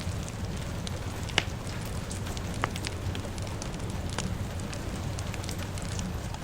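A fire crackling with sharp pops over a steady hiss and rumble of rain. Two louder pops stand out, about a second and a half and two and a half seconds in.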